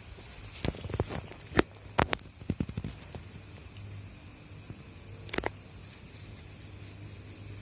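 Night-time outdoor ambience: a high, steady insect trill that fades in and out, broken by a few sharp clicks and knocks, the loudest about a second and a half and two seconds in, followed by a quick run of small ticks.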